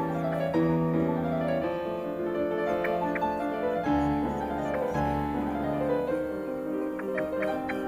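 Background piano music: a slow, steady run of held notes and chords.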